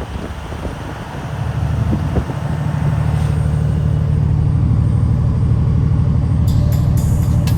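Semi-truck diesel engine running with a low, pulsing rumble. It gets louder over the first couple of seconds as the engine takes load, then holds steady. A few sharp ticks come near the end.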